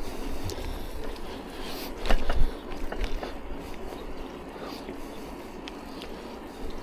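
Riding noise from a bicycle on the road: a steady hiss of tyres and wind on the action camera's microphone, with a low rumble. There are a few sharp knocks about two seconds in, the loudest moment.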